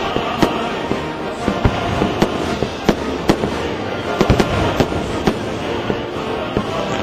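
Aerial fireworks going off in an irregular series of sharp bangs and pops, several a second, over a steady rumble.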